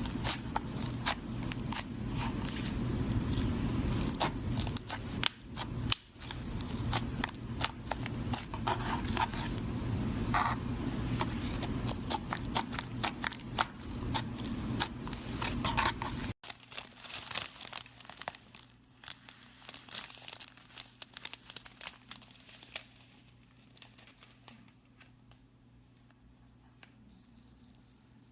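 Slime being squeezed and worked by hand, making dense crackling, crunching and popping clicks. About two thirds of the way in it cuts abruptly to a quieter clip whose crackles thin out and fade.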